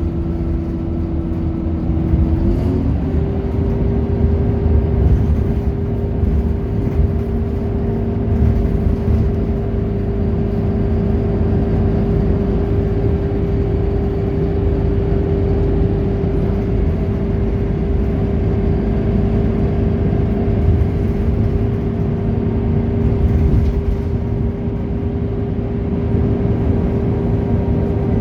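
Scania K230UB city bus running steadily with a low engine rumble and a steady whine. The whine steps up a little in pitch about three seconds in, then holds.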